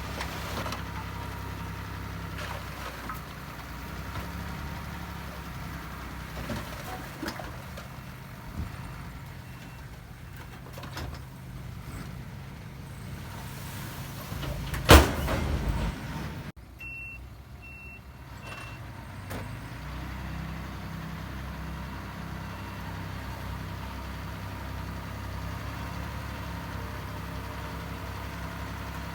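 Heavy diesel engines of earthmoving machines running steadily. About halfway through there is one loud bang, and a few short high reversing beeps follow.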